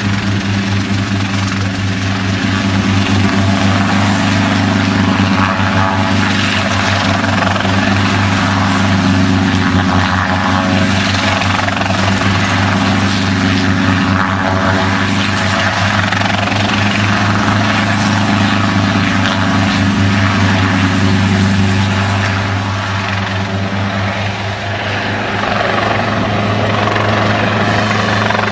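Helicopter rotor and engine running steadily, with a fast, even chop.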